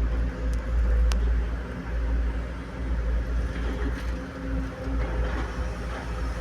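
Heavy diesel engine of construction machinery running steadily with a low rumble and a steady hum, with two short sharp clicks about a second in.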